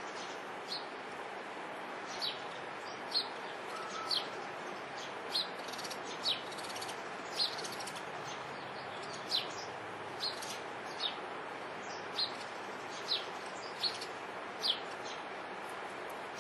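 A small garden bird chirping repeatedly: short, high, quickly falling chirps at roughly one a second, over a steady background hiss.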